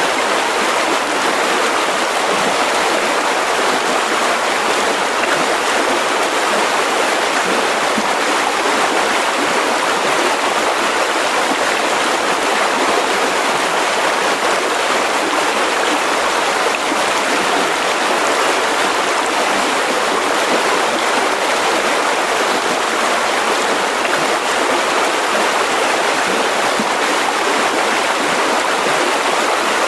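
Mountain river rushing steadily over rocks, a constant even roar of moving water.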